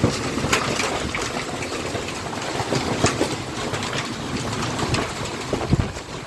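Hailstones pelting down: a dense, irregular clatter of sharp impacts over a steady rushing noise.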